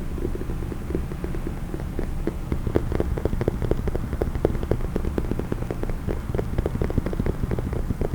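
Rapid, irregular tapping on a case, several taps a second over a steady low rumble. The taps grow denser and sharper about two seconds in.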